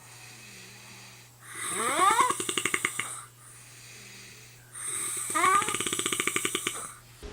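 A snore-like rattling call, heard twice. Each call opens with a rising squeaky whistle and breaks into a fast rattle.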